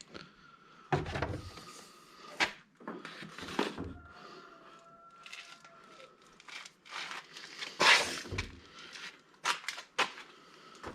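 Things being handled and moved about in a garage: a string of irregular knocks, clunks and scrapes, the loudest about eight seconds in.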